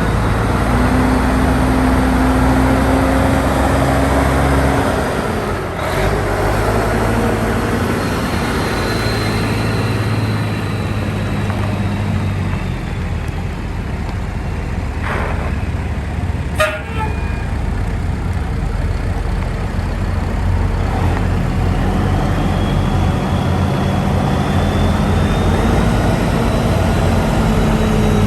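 1992 Ford L-9000 tandem-axle truck's diesel engine running, its pitch stepping up and down several times as engine speed changes. There is a sharp click about two-thirds of the way through.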